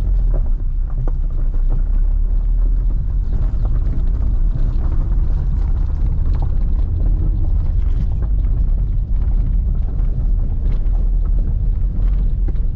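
A car being driven, heard from inside the cabin: a steady low road-and-tyre rumble with scattered small knocks and rattles.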